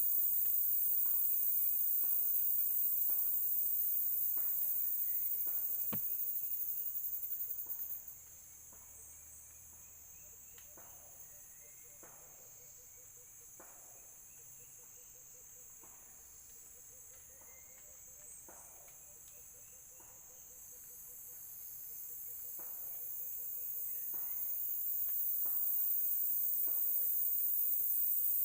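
Insects droning in a steady, high, shrill chorus that fades down about eight seconds in and swells back up over the last several seconds, with faint short chirps repeating underneath.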